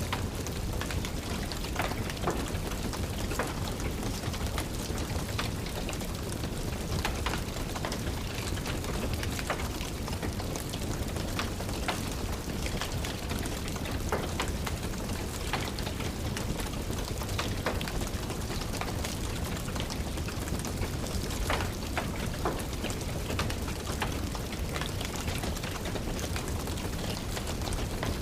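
Steady rain mixed with a crackling wood fire: an even wash of rain over a low rumble, with sharp crackles and pops scattered throughout.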